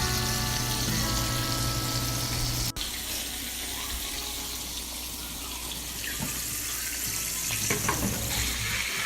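Breaded chicken pieces frying in hot grease in a pan: a steady sizzling hiss. Soft background music with held chords plays over the first few seconds and cuts off abruptly about three seconds in.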